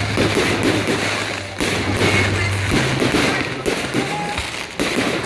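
Aerial fireworks bursting and crackling, with several sharp bangs, the loudest about a second and a half in and near the end, over music playing with a steady bass line.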